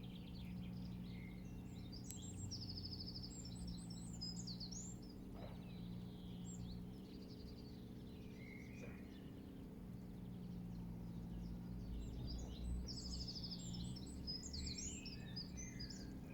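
Songbirds singing outdoors: the same phrase with a fast high trill comes twice, about ten seconds apart, among scattered chirps, over a steady low background rumble.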